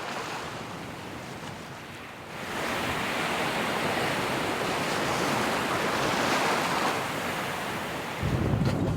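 Sea waves washing, a steady rushing hiss that grows louder about two seconds in. Near the end, wind buffets the microphone with a low rumble.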